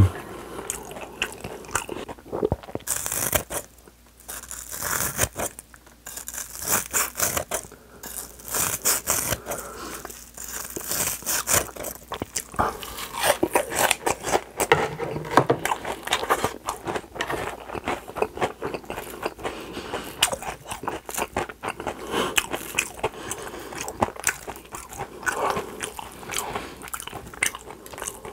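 Close-miked chewing of crisp deep-fried breaded food (pork cutlet and shrimp tempura): dense, irregular crunching of the breadcrumb coating, with wetter chewing between bites.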